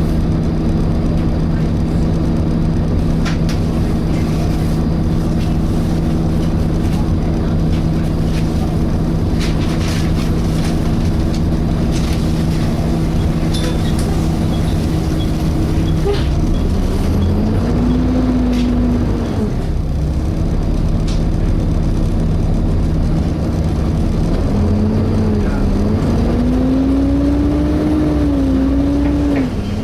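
Volvo B7TL double-decker bus heard from on board: a steady pitched hum of the engine at rest, then, about halfway through, the note rises and falls as the bus accelerates, and climbs again in steps near the end. Short rattles and clicks come through the cabin throughout.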